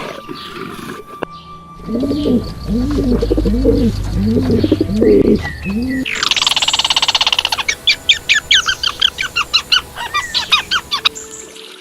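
Birds calling: a series of five low, arching notes, then a rapid buzzy trill and a run of quick, high chirps at about four a second.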